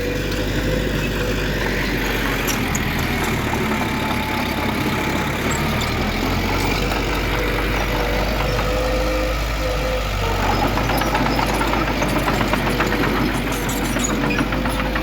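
Heavy diesel engine of earthmoving machinery running steadily, with a steady whine over it. From about ten seconds in, a fast rattling joins.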